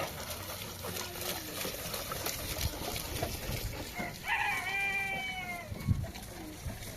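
A rooster crowing once, a single call of about a second and a half in the second half.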